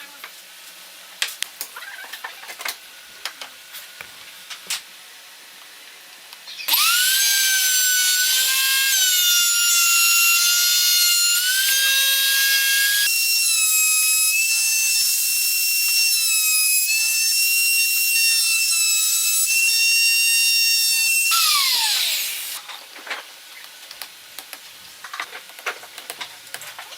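Wood router starting up about seven seconds in, then running with a loud, steady high whine whose pitch steps up about halfway through. It is switched off a few seconds before the end and winds down with a falling whine. Light clicks and knocks of handling come before and after.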